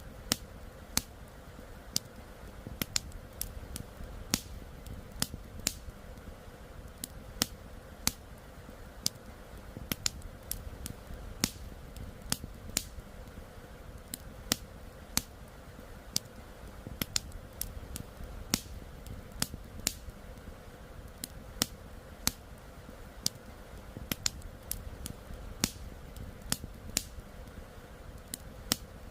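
Wood campfire crackling, with irregular sharp pops and snaps, a few of them much louder, over a steady low rush of river water.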